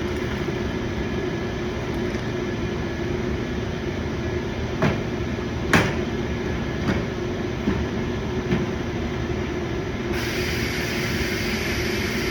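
Steady hum of shop background noise with a few sharp clicks and knocks of plastic bumper parts being handled and fitted, the loudest about six seconds in. A brighter hiss joins near the end.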